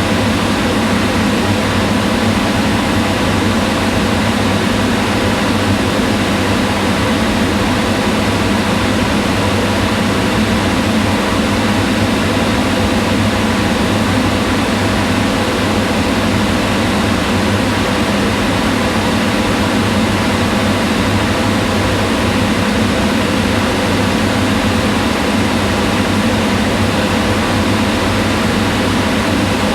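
Kitchen range hood fan running steadily: a constant whirring hum with a whoosh of air and a low tone underneath, unchanging throughout.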